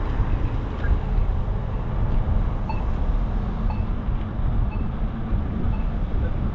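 Steady low rumble of street traffic. Over it, faint short beeps about once a second, typical of a pedestrian crossing signal's locator tone while it shows wait.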